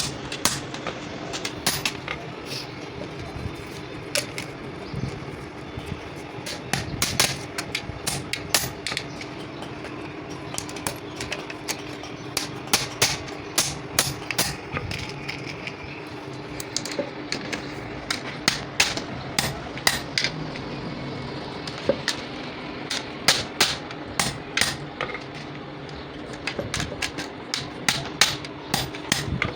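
Quick, irregular light hammer taps on metal, coming in runs of several strikes, over a steady low hum.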